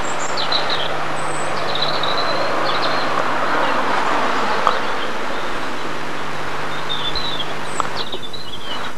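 Small birds chirping in short scattered phrases, near the start and again near the end, over a steady rushing noise and a faint low hum.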